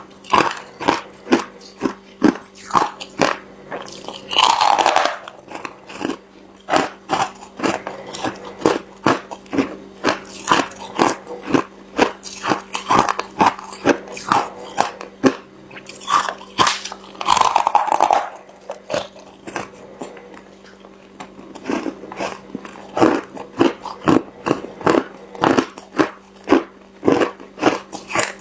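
Ice being chewed with the teeth in rapid, sharp crunches, about two to three a second, with two longer crunching stretches about five seconds in and again around seventeen seconds. A steady low hum runs underneath.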